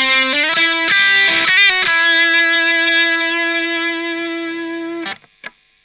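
Electric guitar played through a Fender Santa Ana Overdrive pedal: a quick run of single notes, then one note held and sustaining for about three seconds before it is cut off near the end, followed by a short click.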